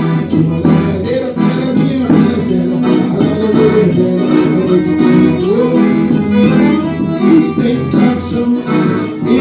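Forró music: an accordion (sanfona) plays the melody over a steady, even percussion beat.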